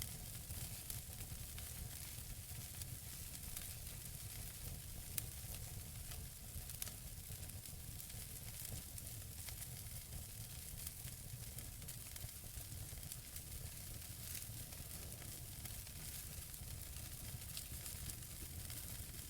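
Wood fire burning in a fireplace: a steady hiss with small scattered crackles and a few sharper pops from the burning logs.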